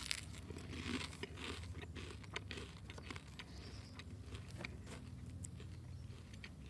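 A person chewing a mouthful of bread drizzled with chilli oil: faint crunching with many small, irregular clicks.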